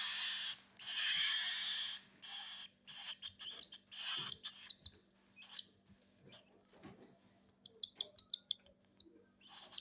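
Baby cockatiel chicks giving raspy, hissing begging calls while being hand-fed: two long hisses, then a run of short clicks and squeaks.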